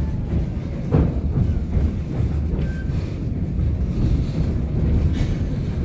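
Low, steady rumble of a moving train, with wind buffeting the microphone and a single knock about a second in.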